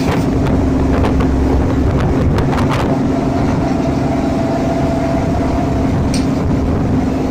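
A sailing yacht's engine running steadily under way, a constant low drone with an even wash of noise over it. A few light clicks or knocks come in the first three seconds and again about six seconds in.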